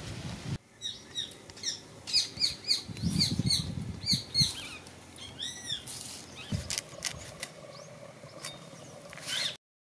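Small birds chirping in quick, short, arched calls, several in a row and overlapping, with a few sharp clicks in between; the sound cuts off abruptly just before the end.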